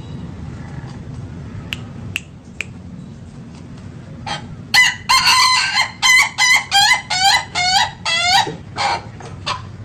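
Ayam ketawa (laughing chicken) rooster crowing: about four seconds in it breaks into a rapid run of about ten short, pitched notes, like a burst of laughter, lasting about four seconds.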